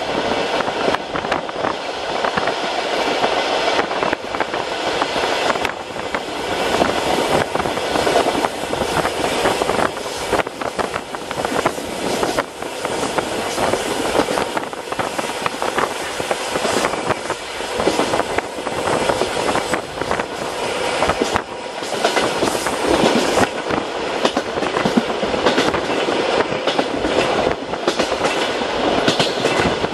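A suburban passenger train running along the track, heard from inside the carriage: a steady rumble and hiss of wheels on rails, with frequent clicks and knocks from the wheels over the rails.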